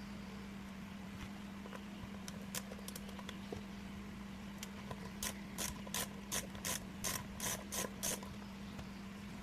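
Screwdriver taking the screws out of a hard drive's casing: a few scattered clicks, then a regular run of about nine sharp clicks, roughly three a second, over a steady low hum.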